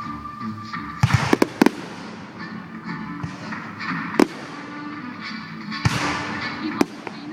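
Fireworks going off: a quick cluster of sharp bangs about a second in, then single bangs about four and about seven seconds in, over a steady crackle of bursting shells. Music plays underneath.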